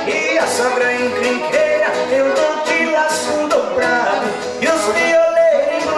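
Brazilian country-style (sertanejo) music led by an accordion, with a voice singing a verse.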